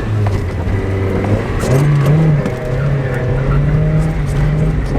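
Mazda Miata's four-cylinder engine at speed during a drift. About a second and a half in it revs up and then holds at higher revs.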